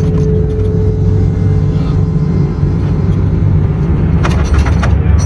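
A loud, steady low rumble, with a run of sharp clicks about four seconds in.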